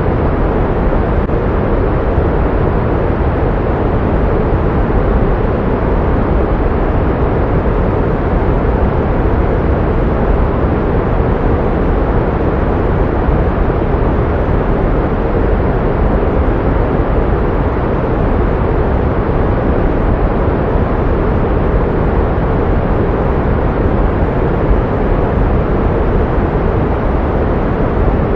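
Pink noise: a steady, even hiss-like rush weighted toward the low end, with no tones or changes, used to mask tinnitus.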